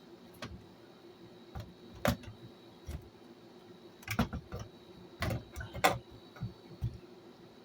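Irregular clicks and knocks of small hard parts being handled and worked loose as a vintage answering machine's record deck is taken apart, the sharpest about two seconds in and again between four and six seconds, over a faint steady hum.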